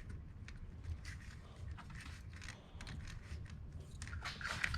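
Scattered light clicks, crackles and rustles of parts and plastic fittings being handled under the hood, busier and louder in the last second.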